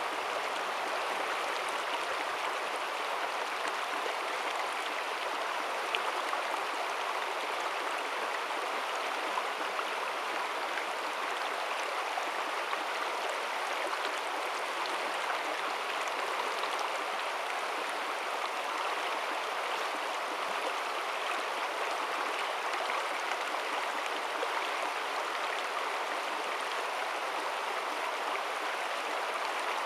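Shallow river water flowing and splashing over stones, a steady babbling rush.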